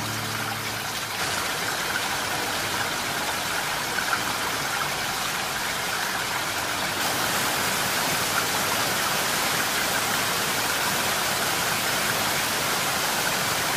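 Steady rushing of a waterfall, falling water splashing without a break, turning a little brighter about halfway through. Guitar music fades out in the first second.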